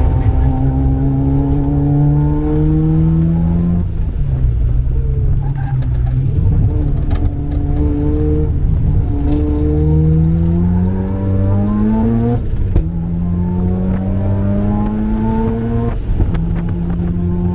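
Turbocharged Mazda RX-7 rotary engine under hard acceleration: the engine note climbs steadily and falls back at each of several upshifts. A faint high whistle rises with the revs in the second half.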